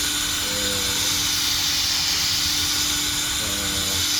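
Steady hiss over a low hum, even and without any rhythm, like a machine or fan running continuously.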